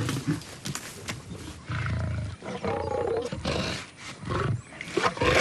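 Lions roaring, several separate calls with short pauses between them.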